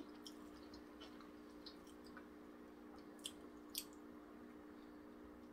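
Quiet mouth sounds of someone biting into and chewing a soft taco, with small wet clicks and two sharper smacks about two-thirds of the way through, over a faint steady hum.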